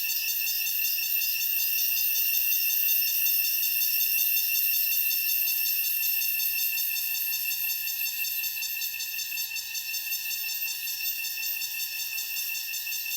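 Cicadas singing in a steady, high-pitched buzzing chorus, easing off a little in the second half.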